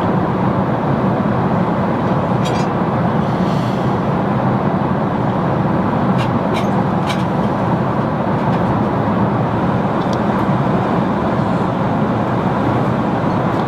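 Jet airliner cabin noise in flight: a steady, even rush with a low hum underneath, and a few faint clicks.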